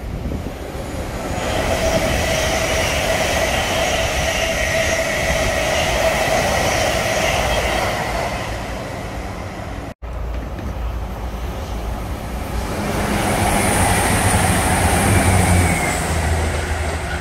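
A Thameslink electric train passing at speed, its motors giving several steady high whining tones over the rush of wheels on rail. After a cut about ten seconds in, an East Midlands Railway InterCity diesel train passes at speed; its engine note and a high whine build to the loudest point near the end.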